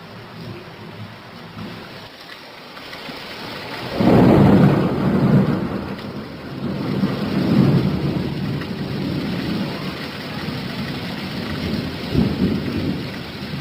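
Steady rain with thunder: a loud rumble breaks in suddenly about four seconds in and keeps rolling in several swells.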